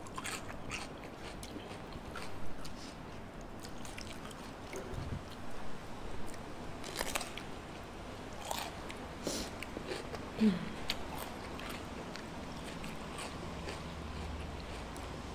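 Crunching and chewing of raw cucumber close to the microphone: irregular crisp bites and chews.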